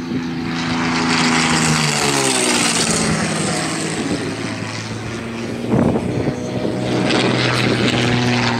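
Propeller airplane flying past low and loud; its engine note drops in pitch about two seconds in as it passes, then runs on steady at the lower pitch.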